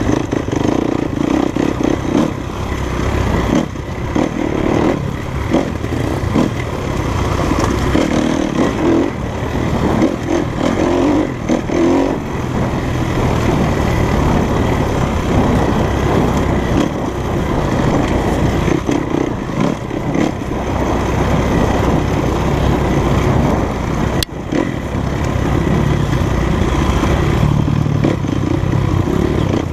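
Enduro dirt bike engine running on a trail, the revs rising and falling with the throttle, with a single sharp knock about three-quarters of the way through.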